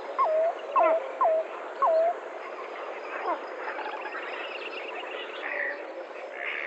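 Rainforest ambience: an animal gives a run of short, loud falling calls, about five in the first two seconds, with one fainter falling call about three seconds in. A steady dense chorus of background forest calls runs underneath.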